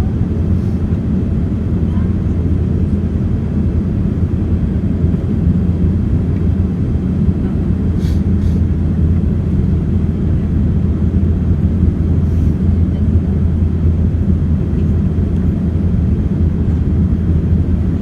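Boeing 787 cabin noise during descent: a steady low roar of airflow and engines heard from inside the cabin.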